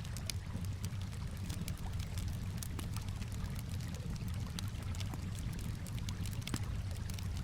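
Campfire crackling with frequent sharp pops, mixed with the steady wash of calm water lapping.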